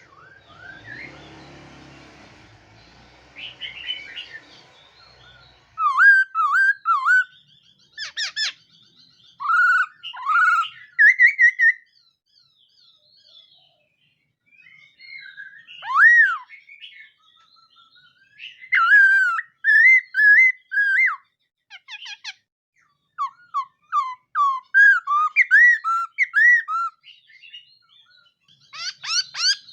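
Laughingthrush (khướu mun) singing. It starts about six seconds in, after a faint start, and goes on in loud phrases of quick, rising-and-falling whistled notes with short pauses between them.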